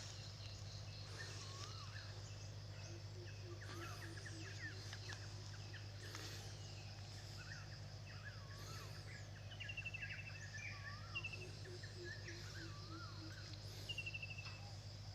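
Several birds calling, with short chirps, whistles and a few quick descending trills, over a steady high insect drone and a low hum. Twice a short run of low, evenly pulsed notes is heard.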